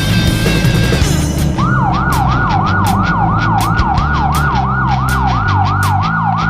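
Rock music with a police siren over it from about a second and a half in: a fast siren whose pitch sweeps down and snaps back up about three times a second, cutting off suddenly at the end.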